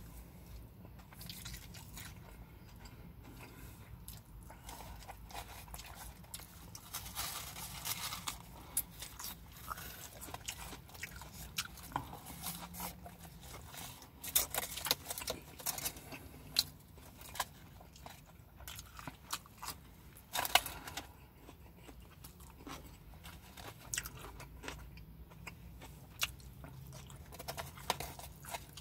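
Close-up chewing and mouth sounds of a man eating a burger: wet smacks and sharp clicks scattered throughout, a few louder ones in the middle.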